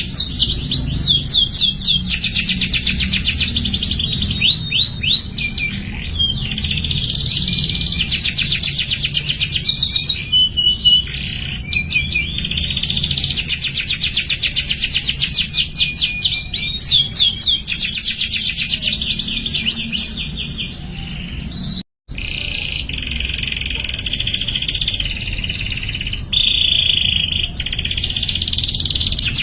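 Domestic canary singing long, fast trills and rolling phrases, high in pitch, over a steady low hum. The sound cuts out completely for a moment about three-quarters of the way through, then the song goes on.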